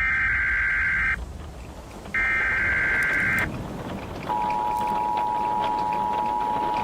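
Emergency Alert System tones for a tornado warning. First come two harsh, screeching data bursts, each about a second long, with a pause between them. About four seconds in, the steady two-tone attention signal begins and holds.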